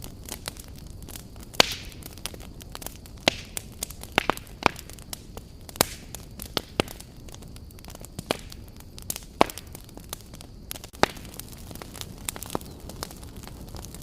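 Wood campfire burning: irregular sharp pops and crackles of burning logs, scattered a few to the second, over a steady low rumble and hiss of the flames.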